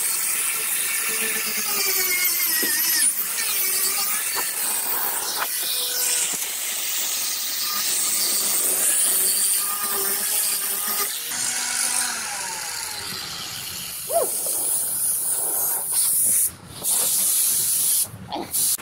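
Power grinder running against fiberglass, a continuous hissing whine with a wavering pitch. It cuts out briefly twice near the end.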